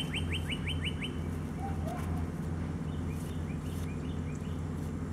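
A wild bird singing a quick run of clear, downslurred whistled notes, about six a second, that stops about a second in. A few fainter chirps follow over a steady low hum.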